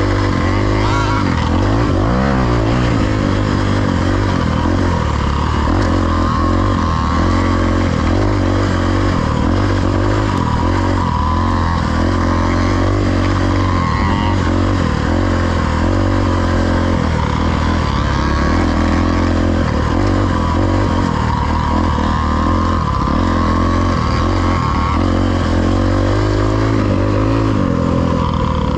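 Dirt bike engine being ridden along a trail, the revs rising and falling again and again as the throttle is opened and closed.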